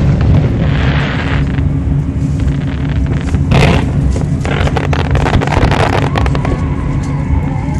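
Aerial fireworks bursting: a heavy boom about three and a half seconds in, then a run of sharper bangs and crackles, over a steady low rumble.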